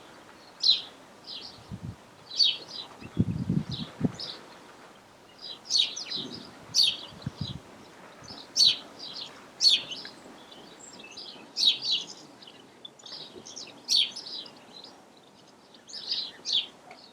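Birds singing, with short high chirps repeating every second or so, and a few low knocks in the first few seconds.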